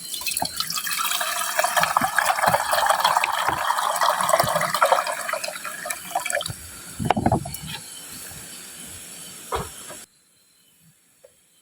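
Water being poured into a cooking pot for about six seconds, followed by a few knocks of the pot. The sound cuts off suddenly near the end.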